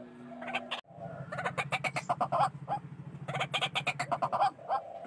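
White-breasted waterhen calling loudly: rapid runs of short, harsh repeated notes, with a low pulsing croak beneath them from about a second in until shortly before the end.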